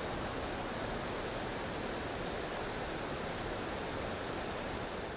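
Steady rushing of river water spilling over a falls or dam.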